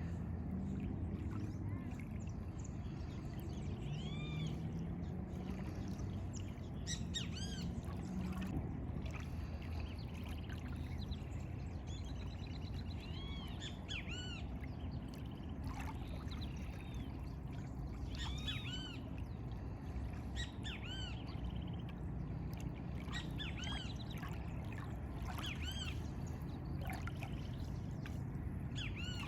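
Birds singing, with short arched chirps repeated every second or two throughout, over a steady low rumble of background noise.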